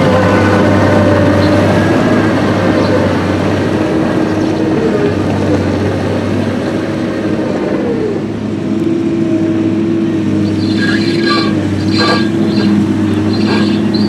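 Heavy diesel machinery running steadily, its pitch dipping briefly about eight seconds in. From about ten seconds in, high squeaks and rattles come and go over the engine sound.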